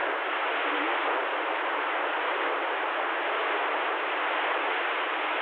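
Steady hiss of static from a CB radio receiver between transmissions, a thin, tinny noise with no voices in it.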